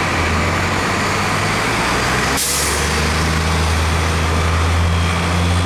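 Fire engine's diesel engine running, with a sharp hiss of air brakes releasing about two and a half seconds in. After that the engine note grows stronger.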